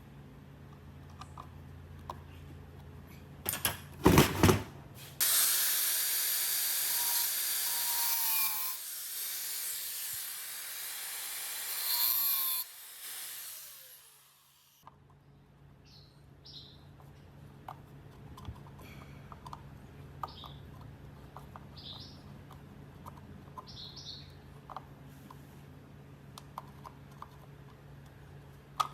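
A power tool runs with a loud hiss for about seven seconds, then stops. A couple of loud knocks come just before it, and small workshop clicks and taps follow.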